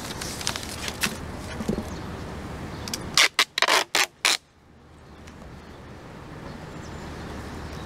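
Tape being pulled off a roll in about five quick, loud rips about three seconds in, with a few faint clicks before them.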